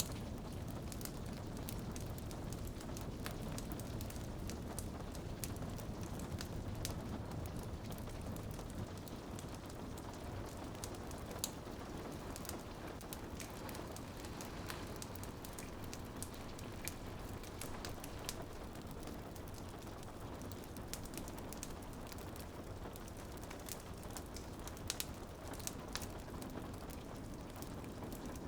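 Rain pattering on a window with a fireplace fire crackling, steady hiss and low rumble with many small sharp pops scattered throughout; a couple of louder pops stand out, about 11 seconds in and again near 25 seconds.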